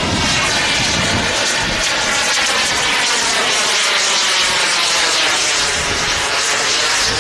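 Engine of a giant-scale radio-control model airplane in flight, a steady engine note whose pitch slowly falls and rises as it moves. Wind rumbles on the microphone in the first two seconds or so.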